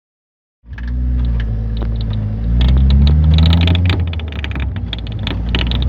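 A 2010 Ford Focus on the move, heard from on board: the engine accelerates with a rising pitch about two to three seconds in, over road rumble, with many sharp knocks and rattles. The car has a noise at the rear that the mechanic traced to a worn rear shock absorber mount.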